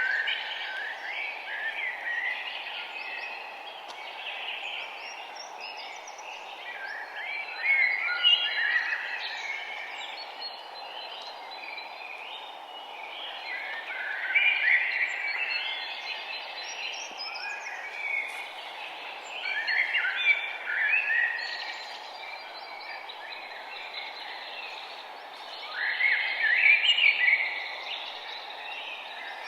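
Birdsong: bouts of quick, high chirping phrases every few seconds, the loudest near the end, over a steady background hiss.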